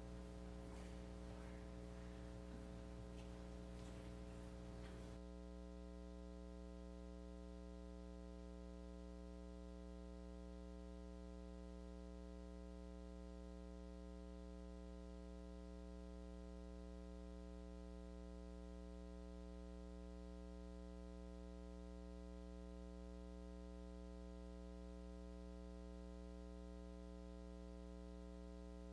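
Quiet electronic keyboard holding one sustained chord, unchanging. Faint clicks and rustling sit over it for the first five seconds.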